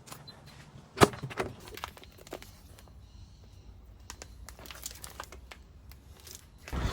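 Plastic vacuum-sealer bags crinkling and rustling as they are handled, with scattered sharp clicks, the loudest about a second in. A low steady noise sets in at the very end.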